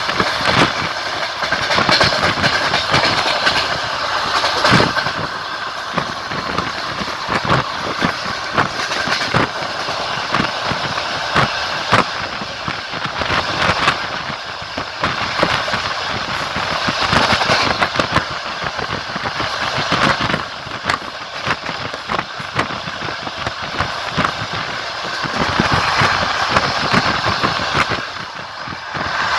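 Passenger train running, its wheels clattering over rail joints: sharp clicks at an uneven spacing over a steady rumble.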